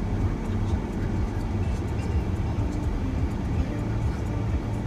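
Steady low road and engine rumble of a moving shuttle van, heard from inside the cabin.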